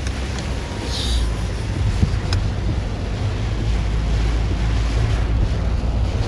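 Strong typhoon wind buffeting the microphone: a steady rushing noise over a heavy low rumble, with a short hiss about a second in and a faint tick a little after two seconds.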